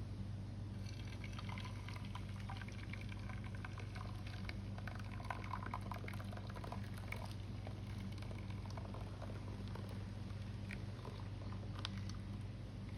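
Molten lead being poured into a waffle plate, with scattered small crackles and ticks over a steady low hum.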